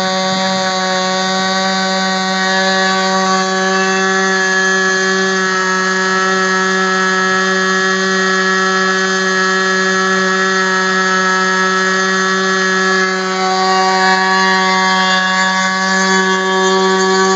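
ASP 25 two-stroke glow model engine spinning a 10x6 propeller at high speed on a test stand: a loud, steady, high-pitched buzz. The pitch wavers slightly about two-thirds through.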